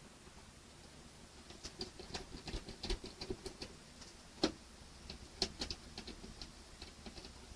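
Small screws being driven by hand with a screwdriver into plastic model parts: a run of quick, light clicks and scratches, with two sharper clicks about four and a half and five and a half seconds in.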